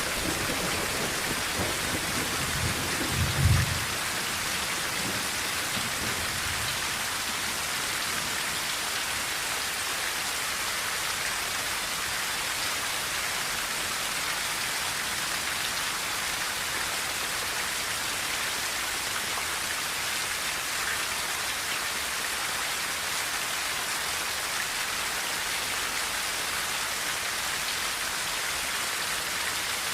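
Steady rain drumming on a tin roof, an even hiss throughout. A low rumble of thunder runs through the first few seconds, peaks about three and a half seconds in, and dies away by about seven seconds.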